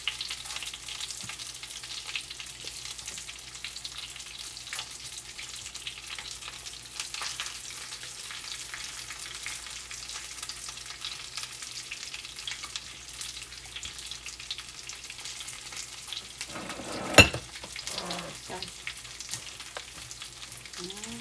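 Breaded oysters frying in oil in a nonstick pan: a steady sizzle with fine crackles. A single sharp knock near the end.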